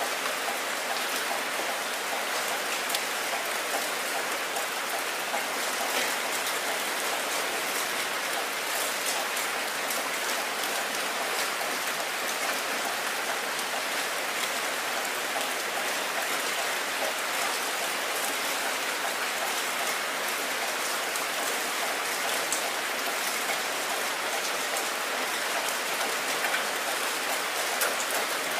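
Heavy rain falling steadily onto a wet surface: a dense, even hiss laced with many sharp little drop impacts and splashes.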